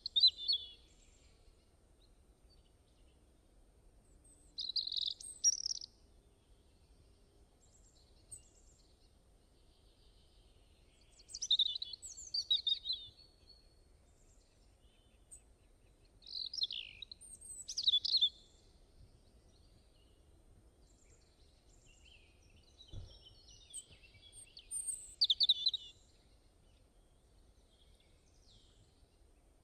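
A songbird singing short, high-pitched phrases about every five to six seconds, with quiet pauses between them.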